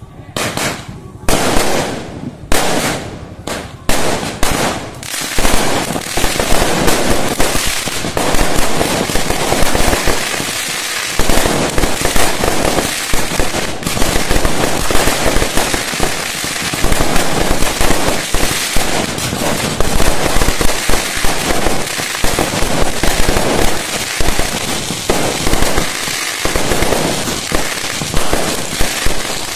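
Fireworks going off: a few separate sharp bangs in the first five seconds, then a dense, continuous barrage of bangs and crackling.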